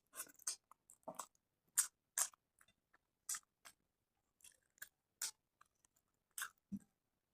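Close-miked chewing of a mouthful of rice and fish curry: irregular short smacks and clicks of the mouth, some a little louder than others.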